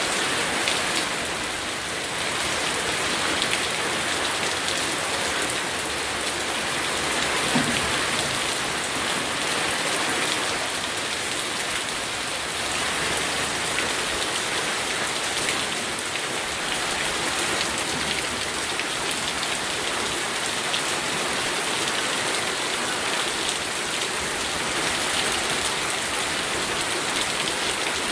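Steady rain falling and pattering on surfaces, dense individual drops heard throughout, with one slightly louder drop or splash about seven and a half seconds in.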